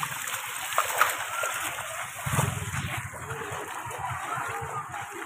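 Footsteps splashing and sloshing through standing rainwater on a flooded street, with a steady hiss of heavy rain. A few sharper splashes stand out, one about a second in and a heavier one past the middle.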